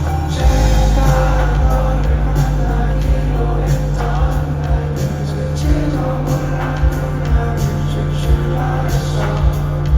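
Indie rock band music with a steady drum beat, bass and a singing voice.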